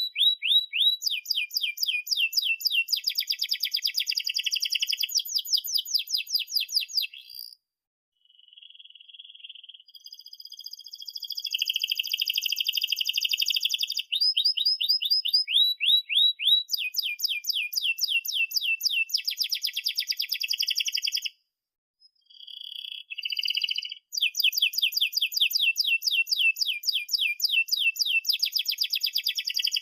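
Domestic canary singing long, fast rolling phrases: rapid runs of repeated down-slurred chirps and buzzy trills, with two brief pauses, about 8 and 22 seconds in.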